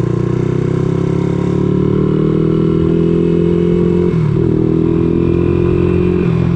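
Honda ATC200X three-wheeler's single-cylinder four-stroke engine running through a CRF230 exhaust, engine speed climbing slowly, with a brief dip about four seconds in before it steadies.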